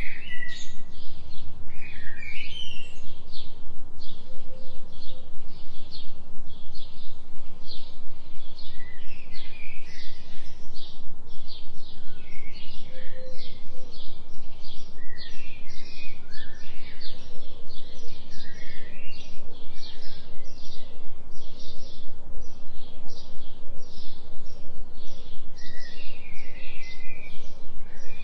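Forest ambience: scattered bird calls over a high chirp that repeats steadily about twice a second, with a steady low hum underneath from the binaural delta tone track.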